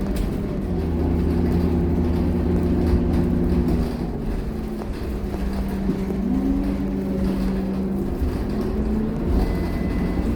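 Scania K230UB bus's five-cylinder diesel engine running under way. Its note eases off about four seconds in, then climbs again a couple of seconds later as it takes up power. A short, thin high tone sounds near the end.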